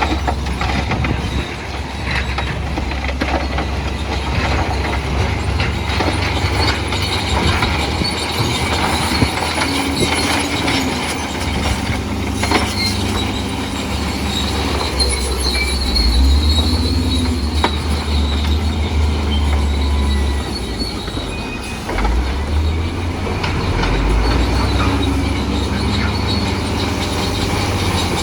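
Crawler bulldozer working: its diesel engine runs steadily with a low rumble while the steel tracks squeal and clank.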